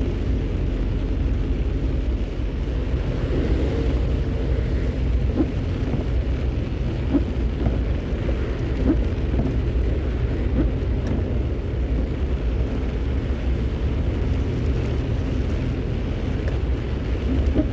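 Vehicle driving in rain: a steady low engine and road rumble with the hiss of rain and wet road.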